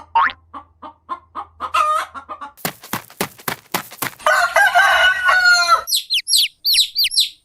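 Chicken sounds: a hen clucking in a quick run of short clucks, a flurry of wing flaps, then a rooster crowing, followed near the end by chicks peeping rapidly in high, falling peeps.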